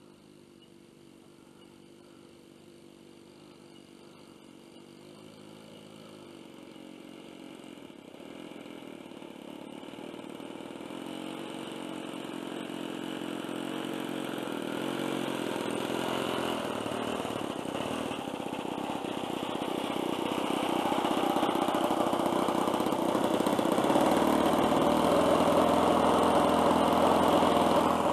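Small single-cylinder engine of a radio-controlled Seagull Skyraider model plane running steadily and growing louder as it comes closer.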